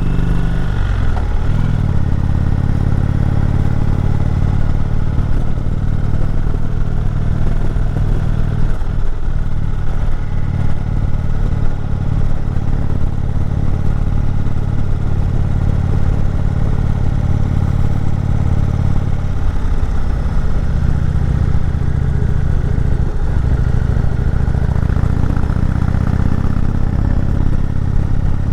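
Indian Chieftain motorcycle's V-twin engine running steadily as it climbs a mountain road. The engine note dips briefly a few times: about a second in, about a third of the way through, and twice in the last third.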